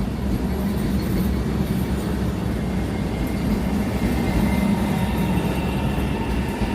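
Train running on the rails: a steady, continuous rumble.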